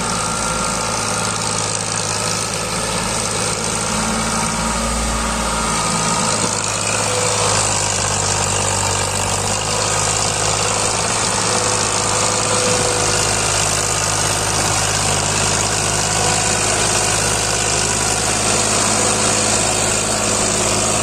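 Farmtrac 60 tractor's diesel engine running steadily at low revs.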